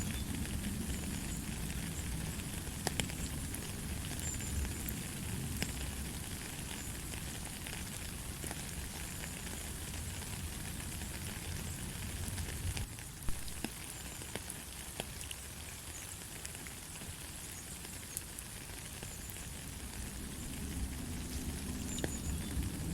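Steady light rain: an even hiss of falling rain with scattered sharp drop ticks and a low rumble underneath.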